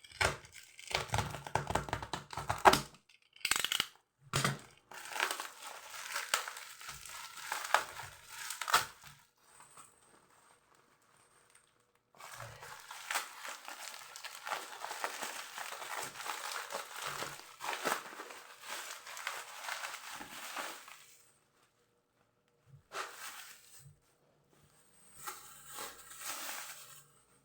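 Toy packaging being torn open and crinkled by hand, in several bouts of rustling and tearing with short pauses between them.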